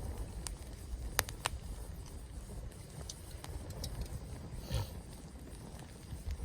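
Wood campfire crackling: a scattered handful of sharp pops, one standing out about a second in, over a steady low rumble, with a brief noisier crackle near five seconds.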